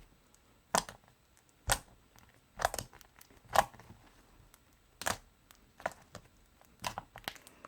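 Slime being squeezed and pulled in the hands, giving a series of short sticky clicks and pops about once a second.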